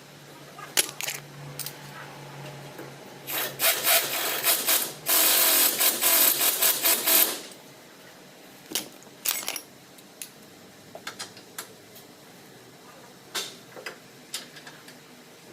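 Metal hand tools clicking and knocking while working on a car, with about four seconds of loud, rapid mechanical rattling from a tool near the middle.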